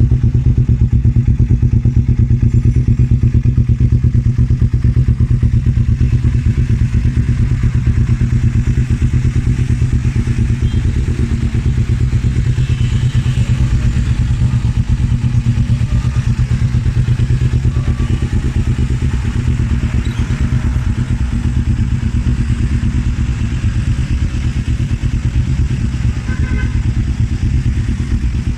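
Kawasaki Z250 parallel-twin engine idling steadily through an aftermarket Arrow exhaust, with a deep, even exhaust note.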